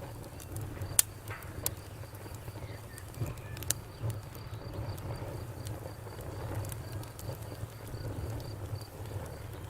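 Campfire burning with a steady low rumble and sharp crackles and pops, the loudest about a second in and more near two seconds and four seconds in. A cricket chirps faintly and evenly throughout.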